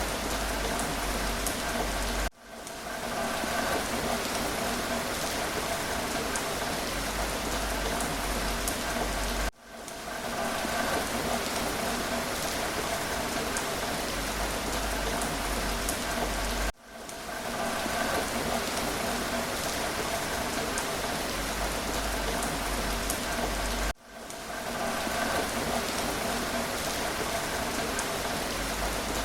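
Steady rain falling, with scattered individual drops ticking through it. Four times, about every seven seconds, the sound cuts out abruptly and fades back in over a second or so.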